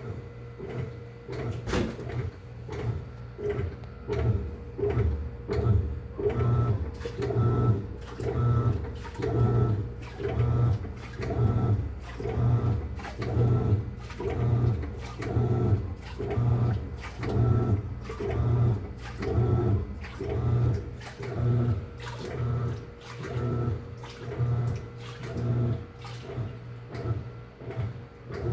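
New Panasonic washing machine working through its wash cycle, with a rhythmic knocking and clacking about once a second over a steady hum; the owner takes the noise for a factory defect.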